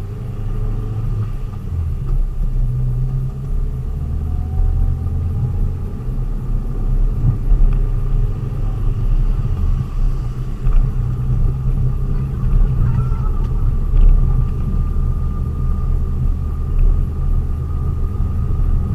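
Steady low rumble of a delivery vehicle being driven, engine and road noise heard from inside the cab, with a faint thin whine over it.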